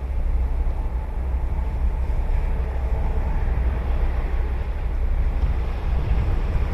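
Ocean surf washing onto a sandy beach, a steady noise with no breaks, under a low rumble of wind buffeting the microphone.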